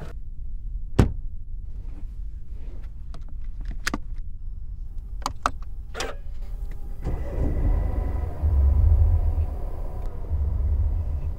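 A single loud thump about a second in and a few sharp clicks, then the Mercedes-Benz GLB 180's turbocharged 1.33-litre four-cylinder engine starts about seven seconds in, its revs flaring and falling back to a low idle rumble.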